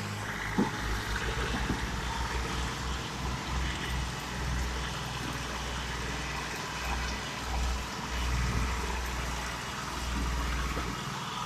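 Tractor engine running steadily, a low rumble that swells and fades under a constant hiss.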